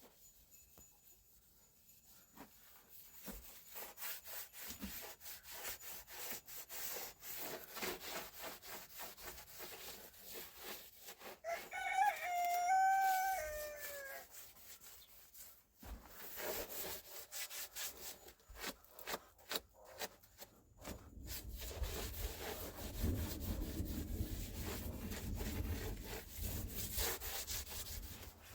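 Repeated scraping or rubbing strokes, with a rooster crowing once about twelve seconds in, one long call that falls in pitch at its end. A low rumble joins the strokes near the end.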